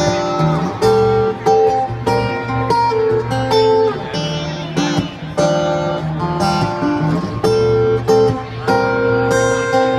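Guitar playing a slow, bluesy instrumental passage: chords strummed about twice a second, with single picked notes ringing between them.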